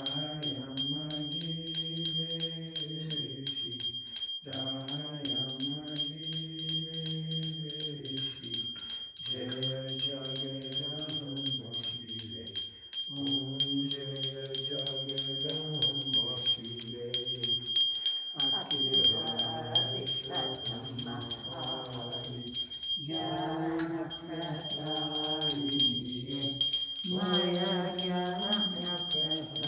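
Devotional chanting sung in phrases of about four seconds each, with short breaths between. A small bell is rung rapidly and without pause throughout, as in a Hindu puja or aarti.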